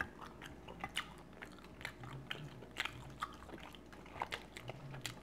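A person chewing food close to the microphone: irregular short clicks and smacks of mouth and teeth, several a second.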